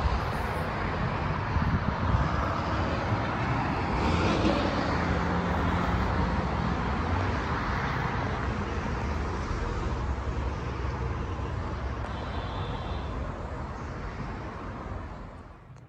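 NJ Transit electric commuter train pulling away down the line, a steady rumble of wheels and running gear that slowly fades as it recedes.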